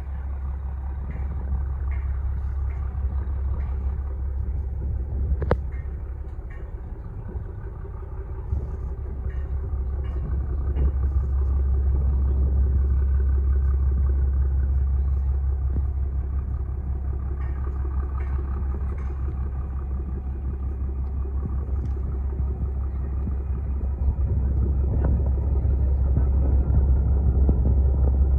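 Steady low rumble of boat engines on the river, easing a little a few seconds in and swelling again soon after.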